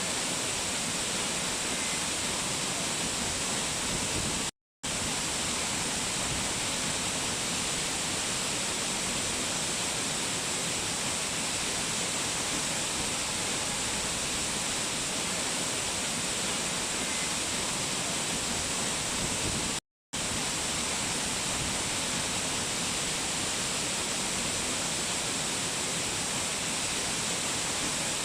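Waterfall: a steady, even rush of falling water with no change in level, cutting out to silence for a split second twice.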